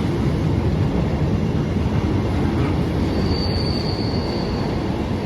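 Long freight train's wagons rolling past with a steady, loud rumble of wheels on rail, and a thin wheel squeal for about a second and a half near the middle.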